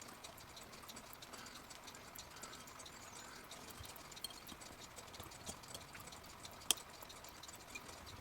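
Faint small clicks and scrapes of a flat screwdriver being run along a bent clock spring laid on a hard surface to straighten it, with one sharper click about two-thirds of the way through.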